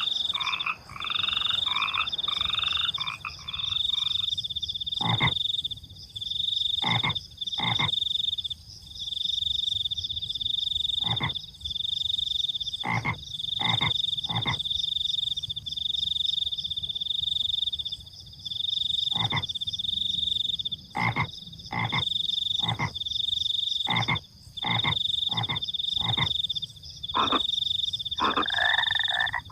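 Frogs croaking with crickets trilling. A high insect trill repeats in pulses about a second long, while frogs give short single croaks at irregular intervals; a denser chorus of rapid frog calls fills the first four seconds, stops, and starts again near the end.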